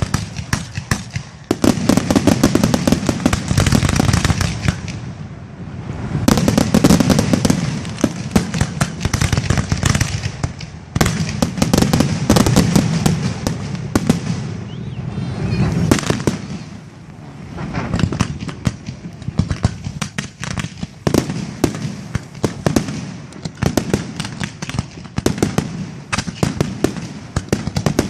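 Fireworks display: a dense, rapid string of bangs and crackles from bursting shells, with a few brief lulls.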